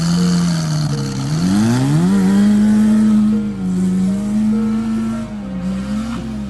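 Stripped Citroën AX's petrol engine revving hard as the car is driven across grass: its pitch climbs sharply about a second and a half in, holds high with small rises and falls, drops back briefly about five seconds in, then picks up again.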